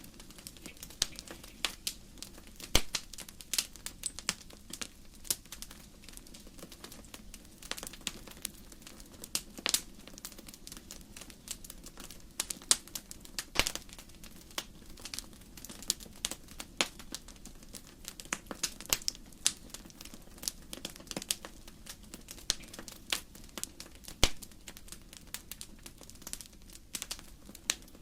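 Wood fire burning in a fireplace: irregular sharp crackles and pops from the logs over a low steady rumble of the flames.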